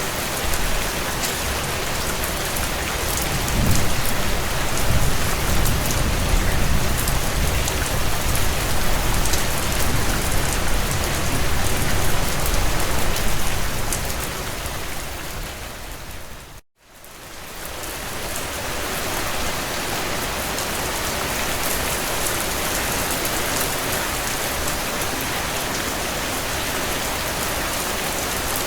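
Heavy rain drumming on a tin roof, a dense steady hiss, with a low rumble underneath from about three to fourteen seconds in. The sound fades down to silence about seventeen seconds in, then fades back up to full rain.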